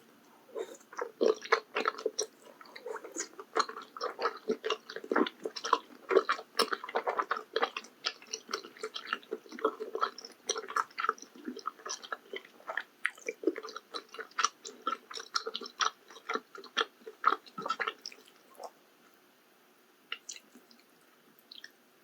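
Close-miked chewing and slurping of maratang, the spicy noodle soup: wet mouth sounds and quick clicks and smacks that come thick and fast, then thin out to a few faint ones about 18 seconds in.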